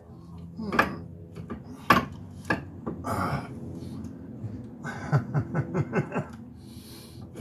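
Metal tools clanking and knocking against a car's wheel hub assembly: a few separate sharp knocks, then a quick run of about half a dozen knocks about five seconds in.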